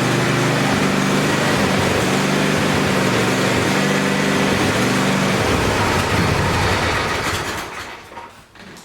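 A motor running steadily and loudly, then dying away over the last couple of seconds.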